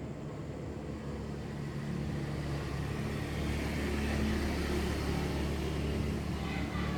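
A motor vehicle's engine running steadily with a low rumble, growing louder over the first few seconds and then holding.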